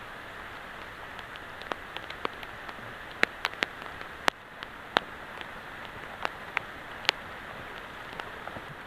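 Heavy rain falling in a steady hiss, with irregular sharp drip ticks of large drops hitting a surface, most of them clustered in the middle.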